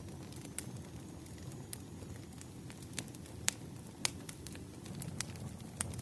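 Wood fire crackling: irregular sharp pops and snaps of burning firewood over a steady low rumble, with the loudest snaps a little past halfway through.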